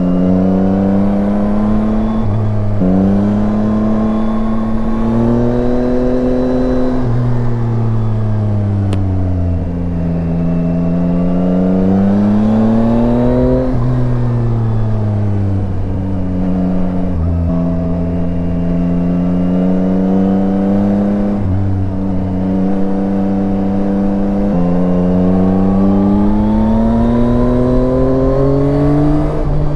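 Yamaha Tracer 9 motorcycle's three-cylinder engine under way, its pitch climbing through each gear and dropping abruptly at each upshift, with some stretches of falling pitch as it slows. A steady rush of noise runs beneath it.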